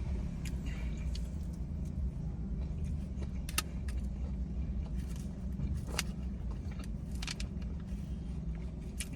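A steady low hum, with a few sharp clicks scattered through.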